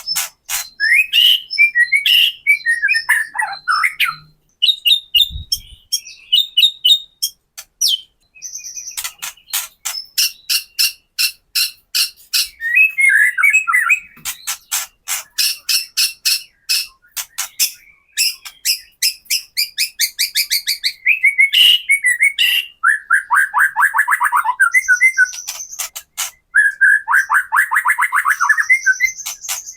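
White-rumped shama (murai batu) calling in its 'kretekan' style: whistled phrases, then long rapid series of sharp rattling ticks and fast trills, repeated throughout. This is the aggressive, challenging song used as a lure to get another shama to respond.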